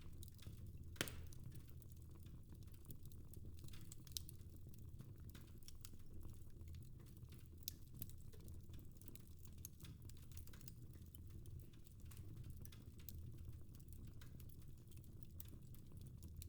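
Fireplace fire crackling: scattered small pops and snaps over a low steady rumble, with a sharper pop about a second in.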